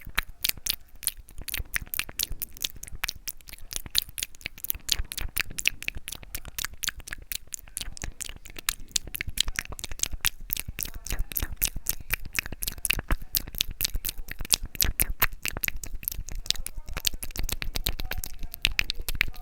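Close-miked ASMR mouth sounds: a rapid, unbroken stream of wet clicks and smacks from the tongue and lips, several a second.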